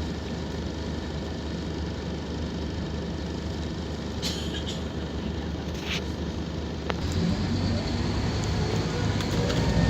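Scania K230UB Omnilink bus's five-cylinder diesel engine idling steadily, with two short hisses of air partway through. About seven seconds in a click comes and the engine takes load, louder and rising in pitch as the bus pulls away.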